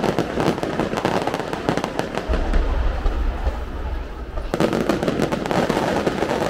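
Aerial firework shells bursting in quick succession with dense crackling, a deep low boom rolling from about two seconds in, and a fresh wave of crackle about four and a half seconds in.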